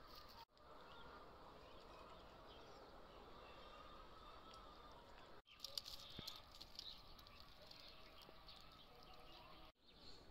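Faint outdoor ambience with a few small bird chirps, busiest for a second or so just after the middle. The sound drops out completely for a moment three times.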